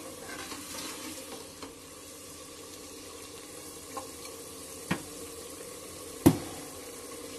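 Spice masala sizzling steadily as it fries in oil in a metal pot, the added water cooking off so the oil separates. A steel ladle clinks against the pot a few times, loudest about six seconds in.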